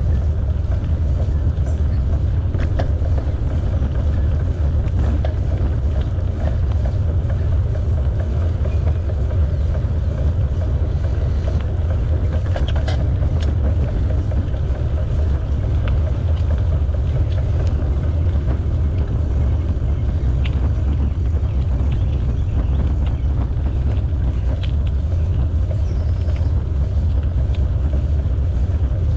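A steady low rumble of wind on the microphone and tyre noise from a moving bicycle, with scattered light clicks and rattles.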